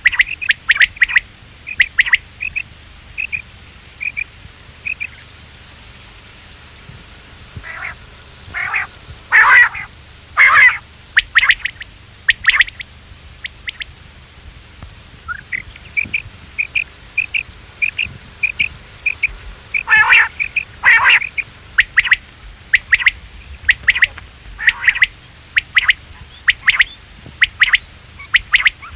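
Quail calling: a long run of short, sharp notes repeated about once or twice a second, with a few louder, harsher calls about ten seconds in and again near twenty seconds.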